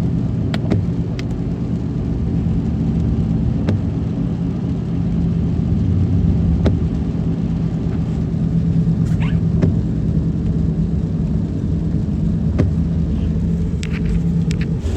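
Car driving, heard from inside the cabin: a steady low engine and road hum, with scattered sharp clicks.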